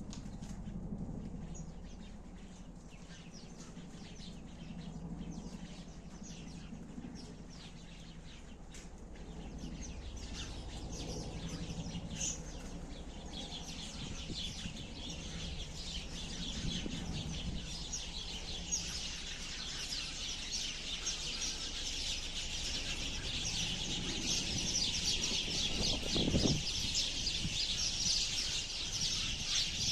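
A flock of sparrows chirping. Scattered chirps build into a dense, continuous chatter about halfway through, with a brief low thump near the end.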